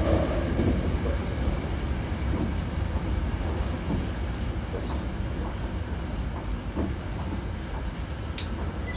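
Hankyu Kyoto Line electric train running, heard from inside the car: a steady low rumble of wheels on rail with scattered light clicks from the track, slowly getting quieter as the train slows before its next stop, with one sharp click near the end.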